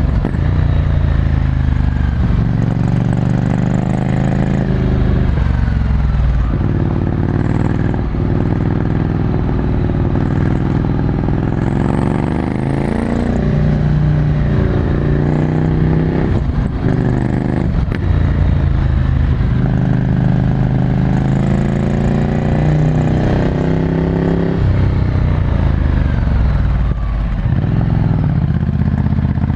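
Ducati Scrambler Desert Sled's 803 cc air-cooled L-twin through a full Termignoni exhaust, heard from on the bike while riding. The engine note climbs and falls again and again as the bike accelerates, shifts gear and rolls off the throttle.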